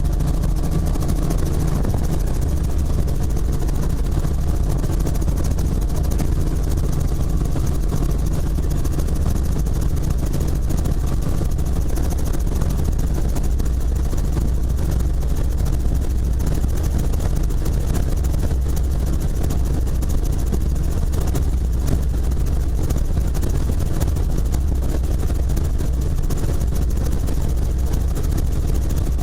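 Helicopter rotor and engine running steadily, an even drone that does not change.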